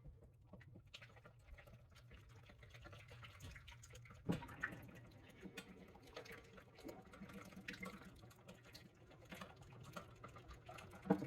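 Faint kitchen cookware handling: a low steady hum that stops with a knock about four seconds in, then scattered light clicks and taps.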